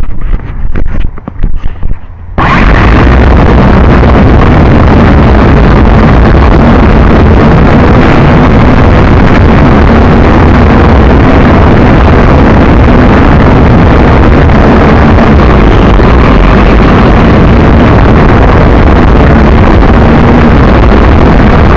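Loud, constant wind buffeting the microphone together with the JJRC H12C quadcopter's spinning propellers, overloading into a distorted rush. A few short gusts come first, and the full noise sets in suddenly about two seconds in.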